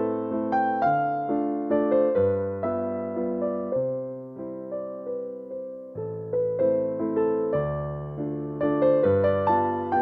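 Background music: a gentle, slow piano melody with repeated decaying notes over low bass notes that change about every two seconds.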